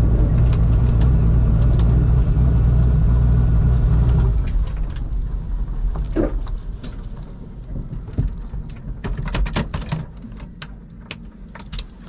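Turbocharged 5.3 LS V8 of a Fox-body race car idling, then shut off about four seconds in. Afterwards come scattered light clicks and knocks and a faint steady high-pitched tone.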